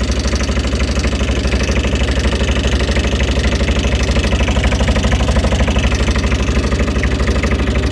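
Site dumper's water-cooled diesel engine idling steadily with a fast, even pulse as it warms up to the point where the thermostat opens.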